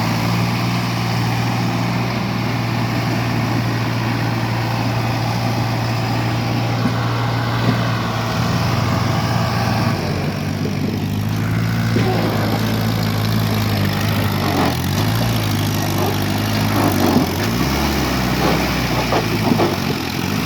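Diesel tractor engine running steadily, changing pitch about halfway through, with faint voices near the end.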